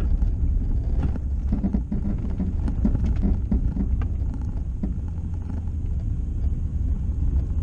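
Car driving along: a steady low road rumble with scattered light knocks and rattles.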